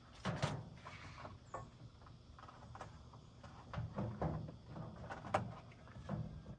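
Irregular light knocks and clicks, like parts or panels being handled, over a faint low hum.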